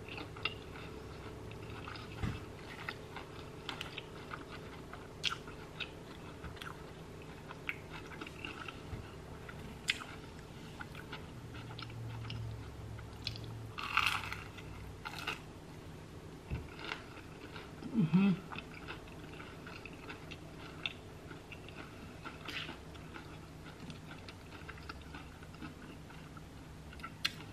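Close-up chewing and mouth sounds of a person eating, with a crunchy bite into a breaded onion ring about 14 seconds in as the loudest sound. A steady low hum from a refrigerator runs underneath, which the owner thinks is defrosting.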